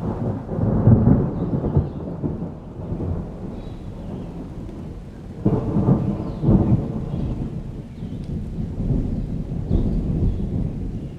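A summer thunderstorm: thunder rumbling and rolling, with two louder swells about a second in and about halfway through, over a steady background of rain.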